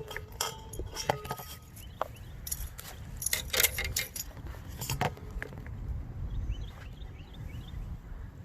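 Handling noise from a phone being turned around and set up by hand: a string of sharp clicks and light metallic rattles, jingling like keys, over about the first five seconds, then quieter wind rumble.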